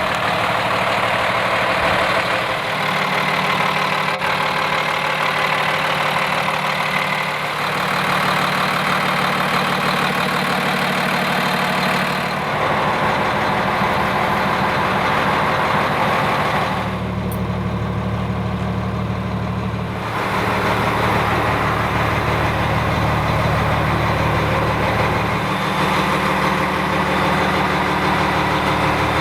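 Sport Chassis M2 hauler truck's diesel engine idling steadily. Its tone changes abruptly every few seconds where the recording cuts between takes.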